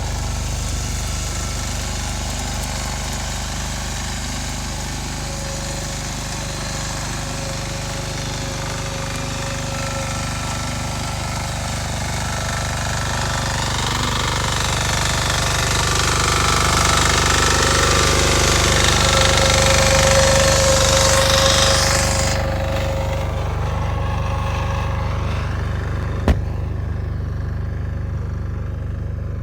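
Two-wheel walking tractor engine running steadily with a rear tine tiller attached, growing louder toward the middle. The higher clatter cuts off abruptly about three-quarters of the way through, leaving a lower engine sound, and there is a single sharp click near the end.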